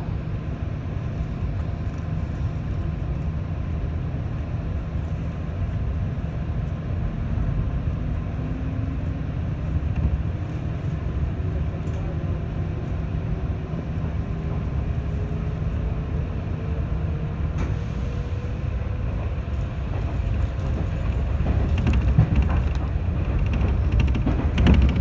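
Cabin sound of a 211 series electric train pulling away from a station: a steady rumble of the running gear, with a faint motor whine rising slowly in pitch as the train gathers speed. A few knocks near the end.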